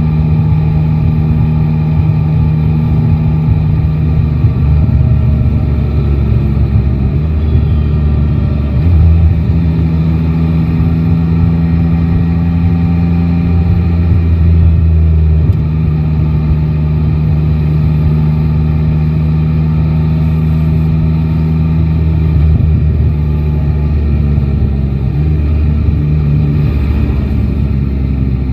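Yamaha Tracer 9 GT's three-cylinder engine running on the move, its pitch rising and falling several times with throttle and gear changes, over low road and wind rumble.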